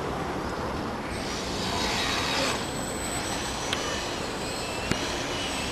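Electric-powered Extra 330 aerobatic airplane flying by: a rush of propeller noise swells about a second in and fades, then the high whine of its electric motor glides up and down in pitch. Two short clicks are heard near the end.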